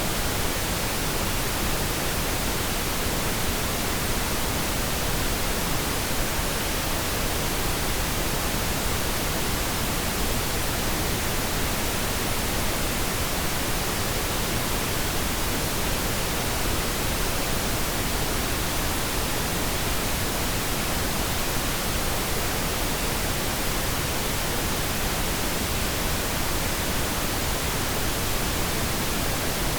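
Pink noise: a steady, even hiss spread across all frequencies, unchanging throughout, generated as a masking sound for tinnitus.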